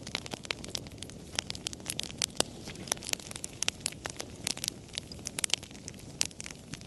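Wood fire crackling: many sharp pops and snaps at uneven intervals over a low, steady hiss and rumble of burning.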